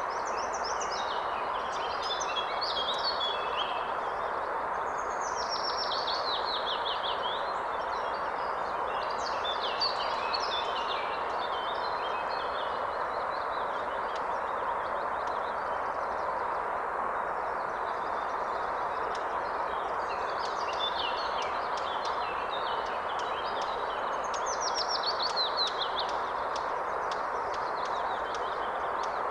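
Steady rush of a flowing river or stream, with songbirds singing above it throughout. Twice, once about five seconds in and again near the end, a bird gives a fast run of notes falling in pitch.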